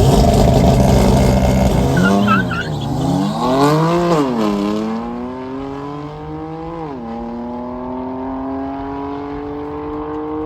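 A car's engine runs hard under loud tyre noise, and the revs swing up and down a few times. It then pulls away through the gears: the pitch climbs steadily and drops at an upshift near the middle and again near the end, growing quieter as it goes.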